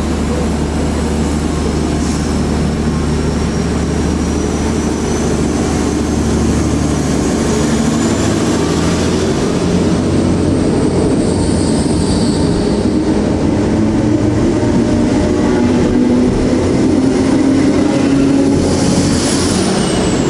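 Class 769 bi-mode multiple unit departing. A steady low engine hum at first, then an engine note and a high whine that both climb in pitch as it gathers speed. The whine drops in pitch near the end as the last coach passes.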